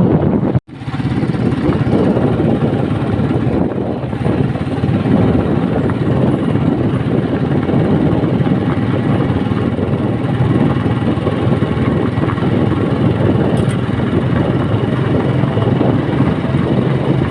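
Steady vehicle engine hum mixed with road and wind noise, heard from on board a moving vehicle. The sound cuts out for an instant just after the start.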